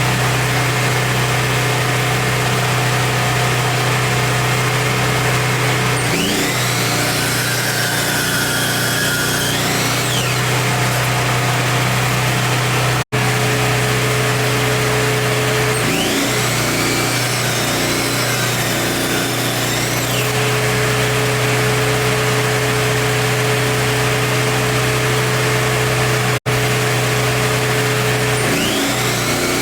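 Delta Cruzer miter saw motor running steadily. Three times, for about four seconds each, the pitch dips and wavers. There are two very brief dropouts in the sound.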